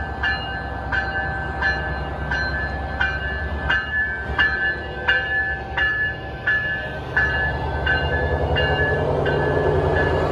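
A passing train running with a low rumble while a bell rings about once every 0.7 seconds. The ringing stops near the end as louder noise from the train close by takes over.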